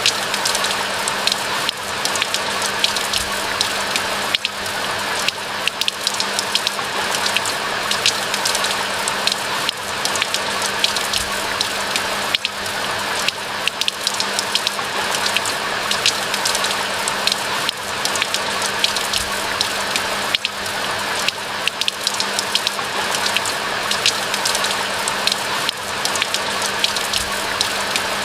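Steady rain falling in a pine forest: an even hiss full of quick, sharp raindrop ticks, with a faint steady low hum underneath.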